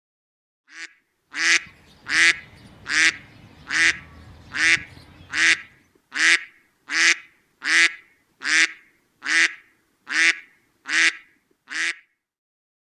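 A duck quacking in a long, even series of about fifteen quacks, a little over one a second.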